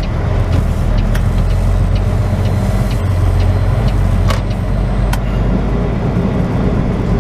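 Semi truck's diesel engine running steadily at low speed as the rig creeps into a lot. There are a couple of sharp clicks, about four and five seconds in.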